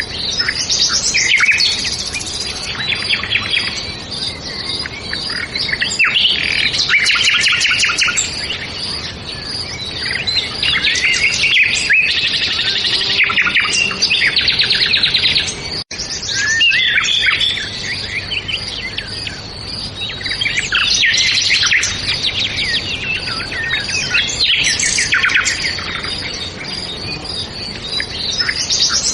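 Songbirds chirping and trilling, several voices overlapping in quick high-pitched bursts every few seconds. The sound cuts out for an instant about halfway through.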